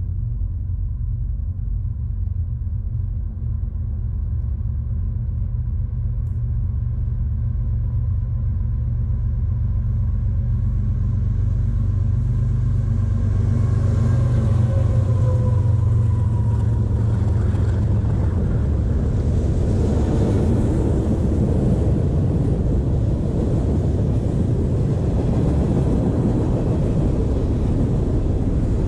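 CSX mixed manifest freight train with diesel locomotives approaching and passing close by: the engines' low drone grows louder, and its pitch drops as the locomotives go past about halfway through. Then the steady rumble of the freight cars' wheels on the rails.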